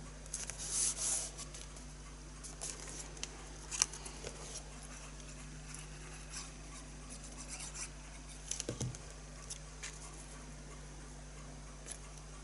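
Paper and card being handled on a work surface: scattered brief rustles and light clicks and taps, with a soft thump a little before 9 seconds, over a faint steady low hum.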